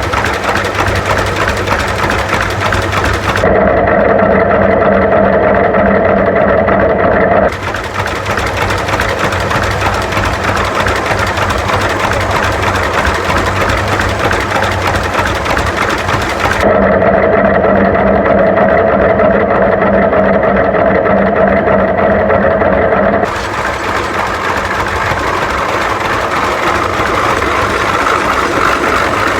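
Old tractor engine running steadily at a loud, even level.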